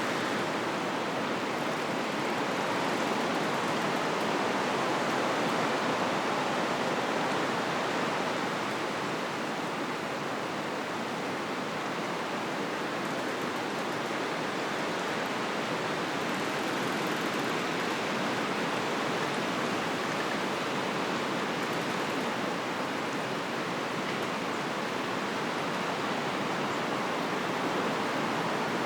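Wind blowing through forest trees: a steady rush in the branches and leaves that swells slightly a few seconds in.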